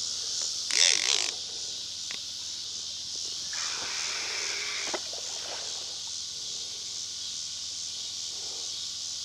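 Steady high-pitched chorus of crickets and other insects, with two brief, louder noises, one about a second in and another around four seconds in that ends in a click.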